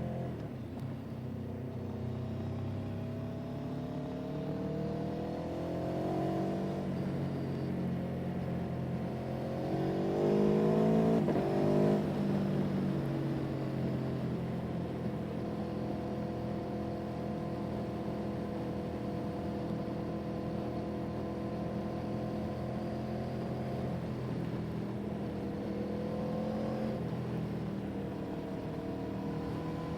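A vehicle's engine running while under way, its pitch climbing as it accelerates and dropping abruptly at gear changes, with a long stretch at steady speed in the middle.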